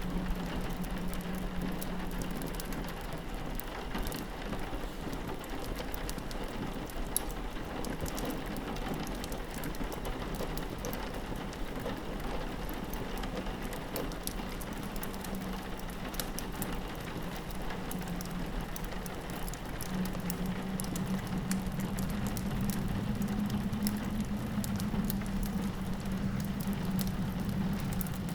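Steady rain pattering on a window, mixed with the sharp little pops and crackles of a wood fire. Under it sits a low steady drone that grows stronger about two-thirds of the way through.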